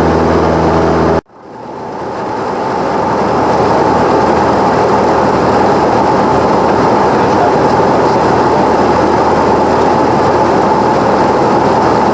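Cessna 172 engine and propeller droning loudly in the cabin. The sound cuts out abruptly about a second in, then swells back over a couple of seconds into a steady rushing roar of engine and airflow.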